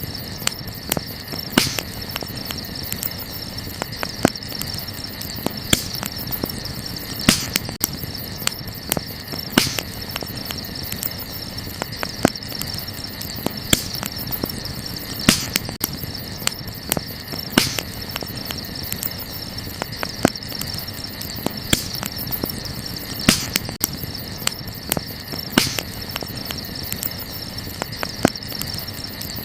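Wood fire burning, crackling with frequent sharp pops at irregular intervals, over a steady high trill of night insects.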